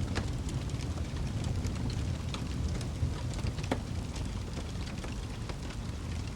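Wood fire burning in a fireplace: a steady low rumble of flames with frequent small irregular crackles and pops, one slightly sharper pop a little past the middle.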